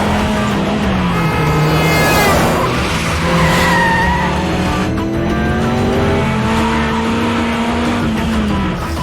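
Car engine revving hard with tyres squealing, over dramatic background music. Near the end the engine pitch climbs steadily before dropping away.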